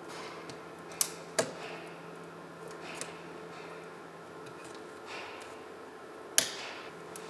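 A few sharp clicks and taps of small metal parts and tools being handled during alternator work, two close together about a second in and the loudest near the end, over a faint steady hum.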